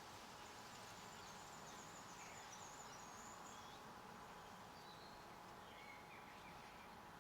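Faint songbird chirping over a steady low hiss: a high twittering run of chirps in the first three or so seconds, then a few softer, lower chirps later on.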